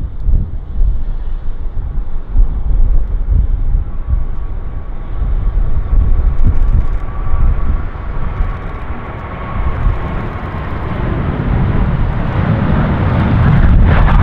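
Boeing 737-800 jet engines running on departure: a low rumble with a whine that grows steadily louder over the last several seconds, and wind buffeting the microphone.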